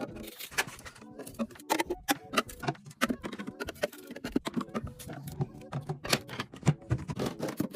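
Quick, irregular clicks, knocks and clinks of drinks and packaged snacks being handled and set into a mini fridge, over music.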